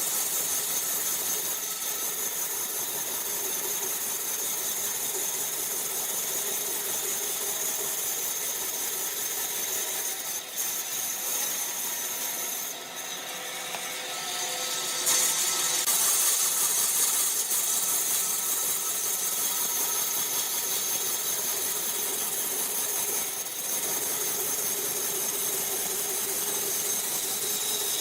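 A woodworking power tool running steadily, with brief dips in loudness partway through.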